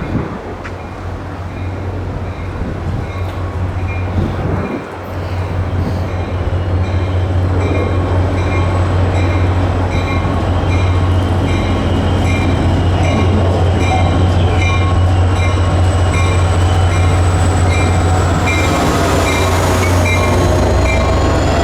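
Caltrain diesel-hauled commuter train running close by, its locomotive engine giving a steady low drone. A high ring repeats about twice a second throughout, and near the end a steady tone dips and rises again.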